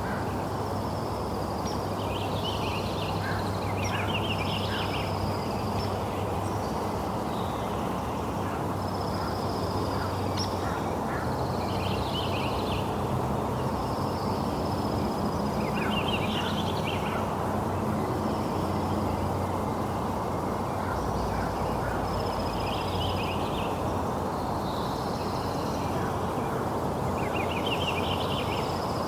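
Steady rain falling, with a songbird calling through it every few seconds: a high held note, sometimes followed by a short rapid trill.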